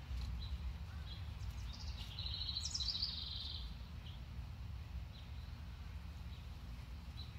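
A small songbird sings a rapid trilled phrase lasting just over a second, about two seconds in, with single short chirps scattered around it, over a steady low rumble.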